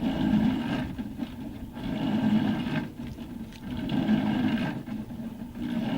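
A machine running with a rhythmic pulse that repeats about once a second.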